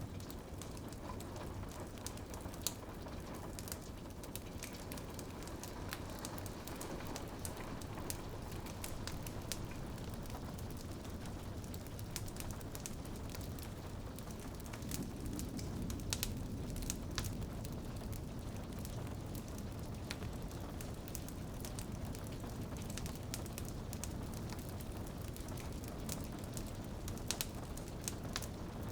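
Fireplace fire crackling and popping with sharp snaps, over a steady patter of rain against a window.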